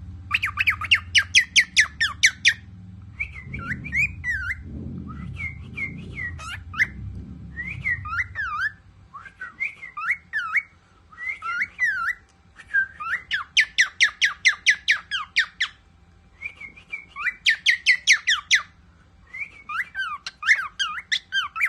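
Pet cockatiel singing: slurred whistled notes that rise and fall, broken by bursts of fast rattling trills.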